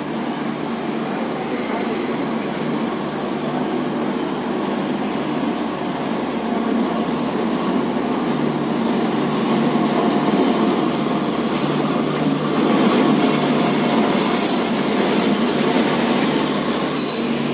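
Rajdhani Express passenger train pulling into a station: a steady rumble of the locomotive and coach wheels on the rails, growing louder as the train draws alongside. A few brief high screeches sound in the second half.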